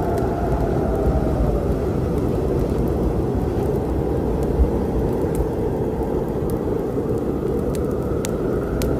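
Storm sound: a steady deep rumble of thunder with rain, and a few sharp crackles of a wood fire, about halfway through and twice near the end.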